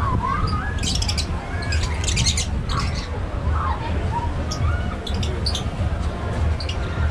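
Tropical aviary birds chirping and calling: many quick high chirps and a few short squawking calls that slide up and down in pitch, over a steady low rumble.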